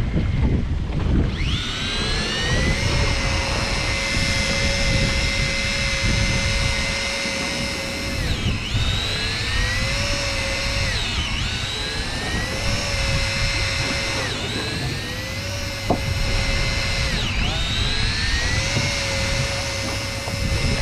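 Electric fishing reel's motor whining as it winds in line. Its pitch climbs and holds, then drops and climbs again about every three seconds, over a low rumble of boat noise and wind.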